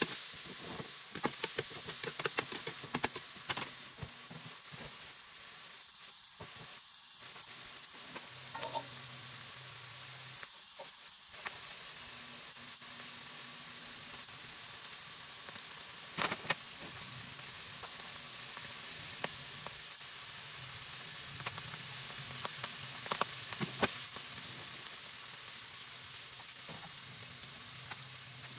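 Diced pork frying in a metal wok: a steady sizzle, with a metal spatula scraping and clinking against the pan during the first few seconds. After that the sizzle runs on alone, broken by an occasional pop.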